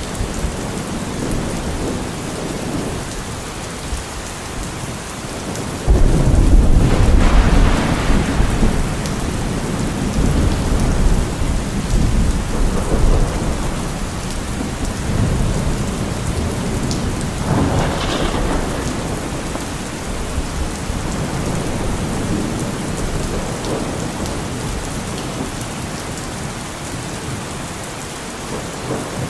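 Steady heavy rain with thunder: a sudden loud clap about six seconds in that rumbles on for several seconds, and another roll of thunder a little later.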